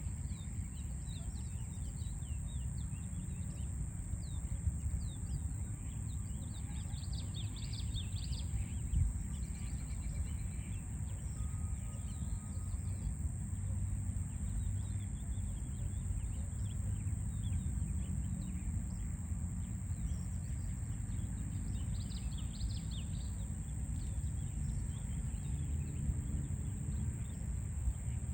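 Birds chirping and singing over a steady low rumble of city traffic, with denser bursts of song about a quarter of the way in and again past the middle.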